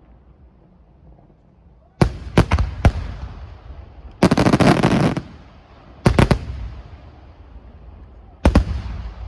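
Aerial fireworks exploding: a quiet start, then a quick run of sharp bangs about two seconds in, a dense crackling burst lasting about a second a little after four seconds, and further pairs of bangs near six seconds and near the end.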